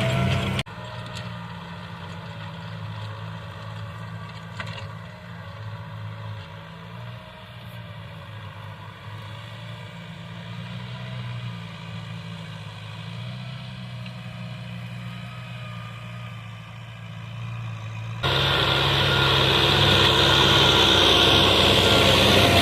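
Tractor engine running steadily with a low hum. The sound is loud at the very start, drops suddenly to a quieter, steady running sound, and jumps back loud near the end.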